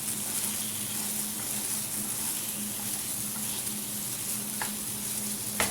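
Chicken pieces frying in spiced oil in a pan, a steady sizzle, with a couple of light knocks near the end.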